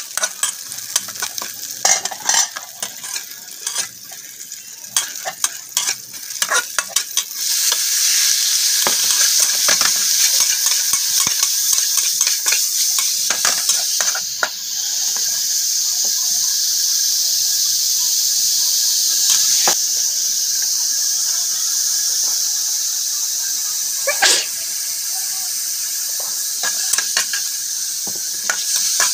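Chopped chilies and garlic sizzling in a wok while a metal spatula scrapes and stirs them. About seven seconds in the sizzle suddenly grows much louder as raw meat goes into the hot pan, and it keeps on steadily with the spatula clinking and scraping against the wok.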